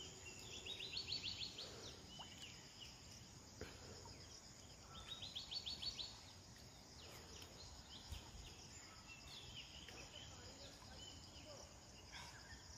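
Faint outdoor ambience: a bird's rapid trill that rises in pitch, heard twice (near the start and again about halfway), over a steady high insect drone.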